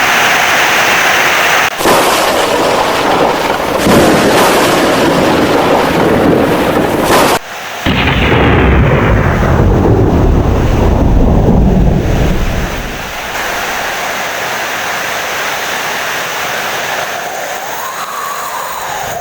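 Thunderstorm: rolling thunder over heavy rain, with a long deep rumble peaking about halfway through and dying away, leaving steady rain.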